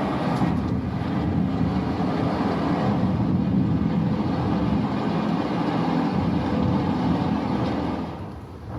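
A loud, steady low rumble with no clear rhythm or pitch, which dips briefly near the end.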